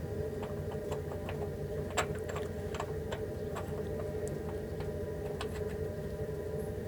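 Light, irregular clicks and taps of hand work on metal parts over a steady low hum with a faint held tone, the sharpest click about two seconds in.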